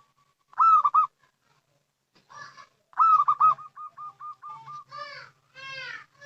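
Zebra dove (perkutut) cooing: two loud bursts of quick, rolling notes, the second trailing off into a run of short, softer notes, followed by a few notes that slide downward in pitch. This is the call used as a lure to draw wild zebra doves.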